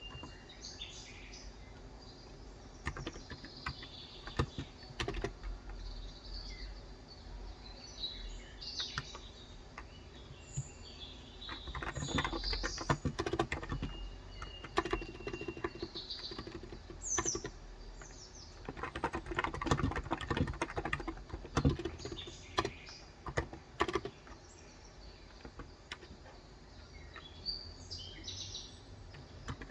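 Typing on a Cox Endeavour electrostatic-capacitive tenkeyless keyboard with 35 g switches: scattered keystrokes, then two longer runs of fast typing about twelve and nineteen seconds in. Birds chirp in the background throughout.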